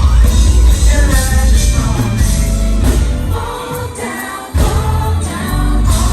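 Live R&B performance: female vocal group singing in harmony over a band with heavy bass; the bass drops out for about a second midway, then comes back in.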